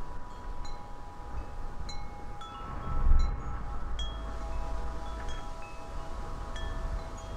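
Wind chimes ringing, struck again every second or so so that several tones ring on together. A gust of wind rumbles on the microphone about three seconds in.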